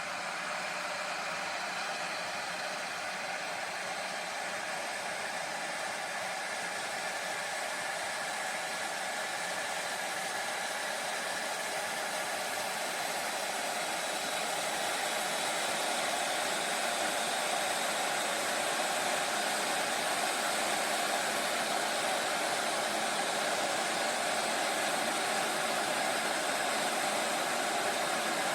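Zilan 2200 W borosilicate glass electric kettle heating water: a steady rushing hiss that grows slightly louder about halfway through.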